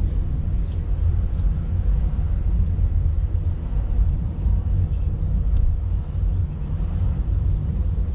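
Steady low rumble of a car on the move: engine and road noise inside the cabin.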